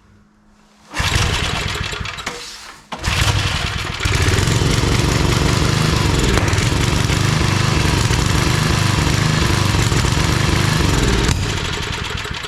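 Old 5 hp Briggs & Stratton engine on a homemade wood splitter starting about a second in, sagging, catching again and then running steadily before winding down near the end. It is running poorly, with a governor the owner thinks is overly sensitive.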